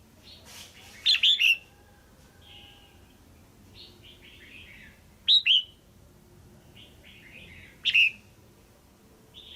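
Female red-whiskered bulbul calling: three loud, short bursts of sharp, falling notes, with softer chattering phrases in between. It is the kind of female call that keepers play to stir up male birds or to help with pairing.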